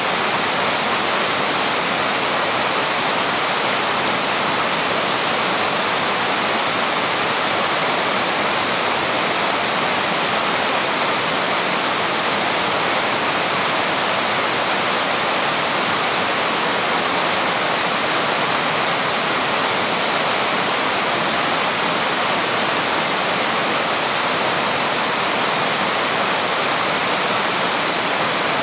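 Small waterfall rushing steadily, a continuous even roar of falling water.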